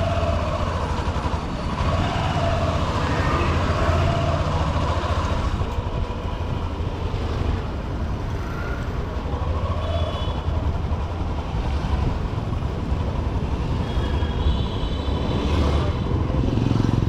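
Honda SP125's 125 cc single-cylinder engine running steadily under way, with the noise of heavy city traffic around it.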